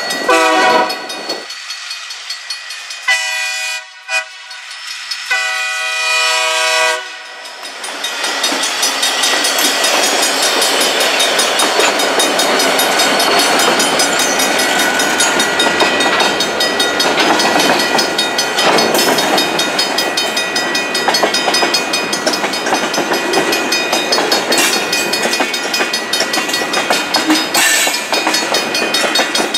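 Freight train's diesel locomotive horn sounds three blasts for a level crossing in the first seven seconds, the last the longest. Then the train's freight cars, tank cars among them, roll steadily past with wheels clacking over the rail joints, and the crossing-signal bell rings.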